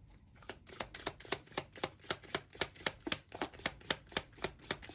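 A deck of tarot or oracle cards being shuffled by hand, the cards slapping together in a quick, even series of sharp clicks, about four or five a second.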